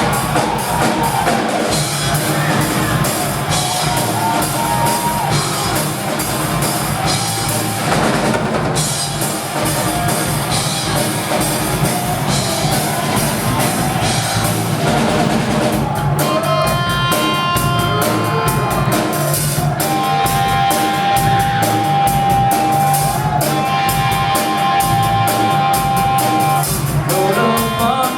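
Live rock band playing an instrumental passage with drum kit, electric guitars and bass. From about halfway in, long held guitar notes ring over the drums.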